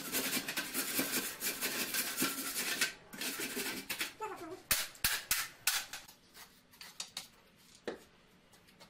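Quick, repeated scraping strokes for about three seconds, then a few sharp knocks about five seconds in and one more near the end.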